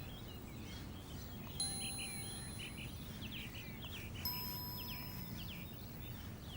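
Faint birdsong ambience of short repeated chirps, with two soft chime tones that ring on for about two seconds each, the first about one and a half seconds in and the second about four seconds in.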